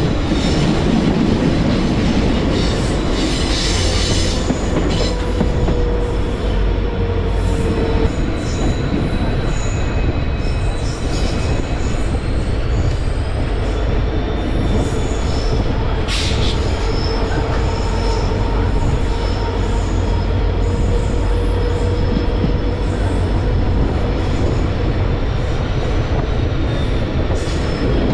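Passenger train running, heard from on board: a steady loud rumble of wheels on rail with thin whining tones that slide slowly up and down in pitch, and one sharp click a little past the middle.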